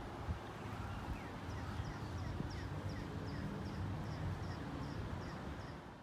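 A low, uneven outdoor rumble, with a bird calling over it: a regular run of short high chirps, roughly three a second, from about a second and a half in until near the end.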